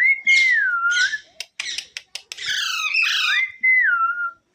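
Pet Indian ringneck parrot whistling and squawking: a clean whistle that rises and then falls, harsh raspy squawks with a few sharp clicks, then a second falling whistle near the end.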